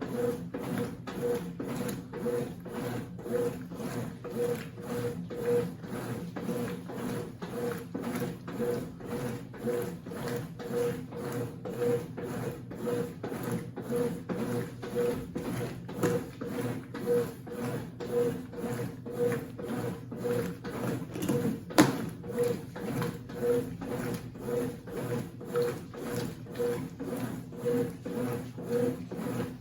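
Consul 8 kg washing machine (CWC08) agitating a load in its wash cycle, a regular rhythmic churning with evenly spaced pulses. One sharp knock about two-thirds of the way through.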